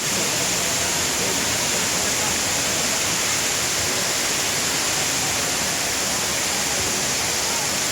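Steady rush of a 21.5-metre waterfall: water falling and crashing in an even, unbroken noise.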